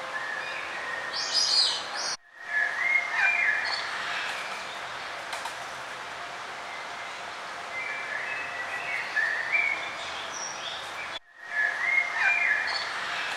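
Songbirds singing in short chirping phrases over a steady background hiss. The sound cuts out completely for a moment twice, about two seconds in and about eleven seconds in.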